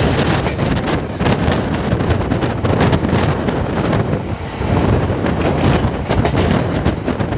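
Passenger train running at speed: wind buffeting the microphone over a steady low rumble of the coaches on the rails.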